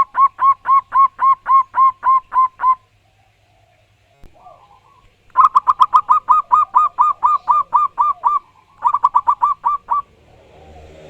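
Zebra dove (perkutut) singing loudly: rapid runs of short, evenly repeated cooing notes, about five a second, in three bursts with a pause after the first, the last run quicker. A fainter, lower sound follows near the end.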